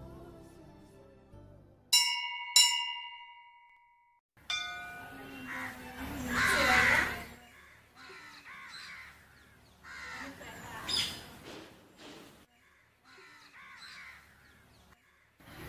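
Two bright, bell-like dings about half a second apart, each ringing out for a second or so. Then outdoor ambience with birds calling repeatedly, the loudest calls a few seconds later.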